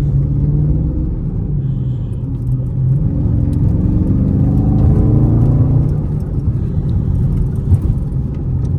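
Dodge Charger Scat Pack's 392 HEMI V8 running steadily, then revving up under acceleration from about two and a half seconds in, its pitch climbing for a few seconds before it settles back to steady cruising.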